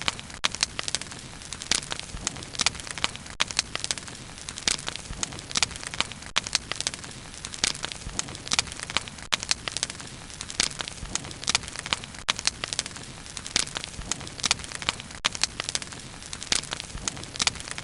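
Wood bonfire burning, crackling and popping in irregular sharp snaps over a steady low rumble of the flames.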